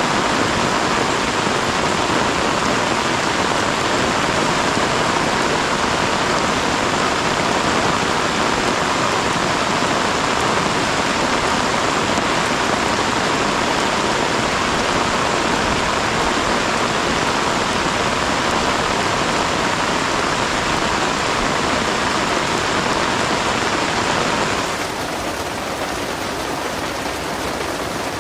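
Heavy rain falling steadily. Near the end it becomes a little quieter and softer.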